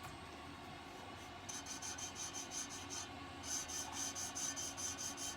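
Valve being hand-lapped into its seat in a tractor cylinder head: the valve face is twisted back and forth with fine grinding paste, making a rapid, rhythmic gritty rasping of about five strokes a second. It starts about a second and a half in, after a faint lead-in, and pauses briefly near three seconds. The rasp is the paste still cutting the seat; when it goes really quiet, the valve is well seated.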